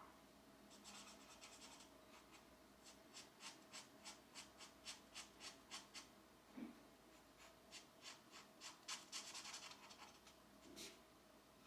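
Colored pencil scratching faintly on paper: quick back-and-forth coloring strokes, about four a second, in several runs with short pauses between them.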